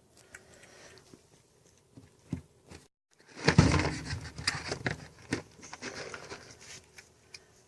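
A cat eating from its food bowl: quick small clicks and crunches of chewing and lapping. A louder rustling, clattering stretch comes in about three and a half seconds in and fades over the next few seconds.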